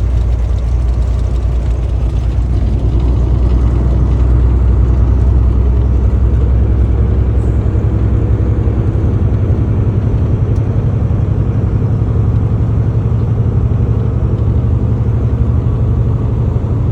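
A car driving at a steady pace: a loud, even low rumble of engine and road noise with no clear changes.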